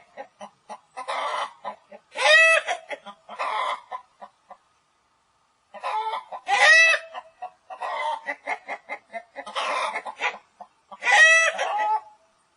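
Domestic hen clucking in quick runs of short clucks, broken three times by a louder, drawn-out cackling call.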